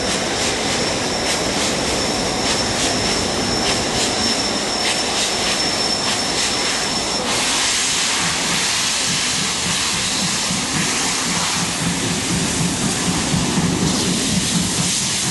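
Steam locomotive on the move: a run of sharp clicks over a steady high tone. About halfway through, the sound changes abruptly to a broad steam hiss with a low hum underneath.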